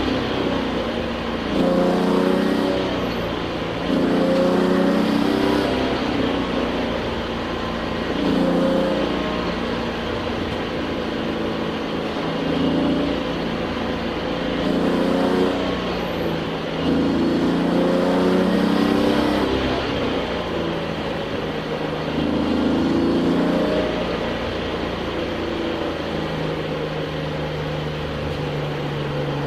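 A touring race car's engine heard from inside the cockpit, at speed, rising in pitch under acceleration and dropping back again and again as it is driven through corners.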